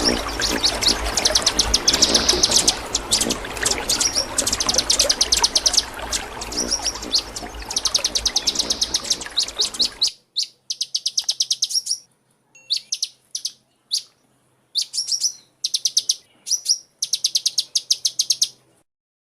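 Sunbird giving fast, high chirping trills, each a rapid run of notes. For the first ten seconds a steady rushing background runs under them. That background cuts off suddenly, and the trills go on alone in short bursts with pauses between.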